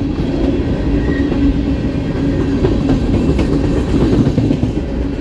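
Coal train hopper cars rolling past close by: a loud, steady rumble of steel wheels on the rails.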